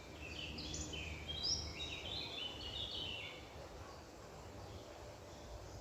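A songbird singing one quick phrase of high, stepping notes lasting about three seconds, over a steady low background rumble.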